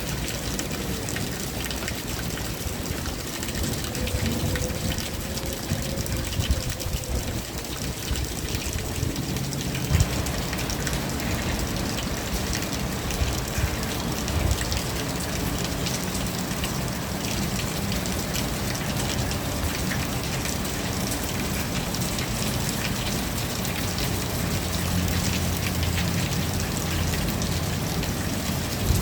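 Steady rain falling, with many individual drops ticking on a nearby surface; the rain fills out about ten seconds in. A low wavering hum sounds under it for the first several seconds.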